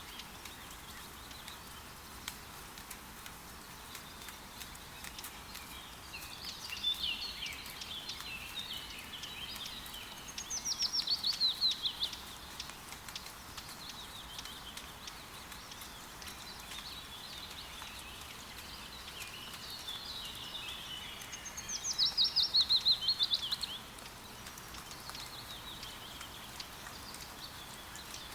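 Steady rain pattering with scattered drips, and a songbird singing over it: softer chirping phrases come and go, and twice it gives a louder, fast run of notes that falls in pitch and lasts about two seconds.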